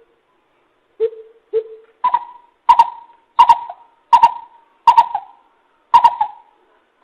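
Coucal (bìm bịp) calling: a series of hollow hoots, two lower ones followed by a run of higher hoots about 0.7 s apart.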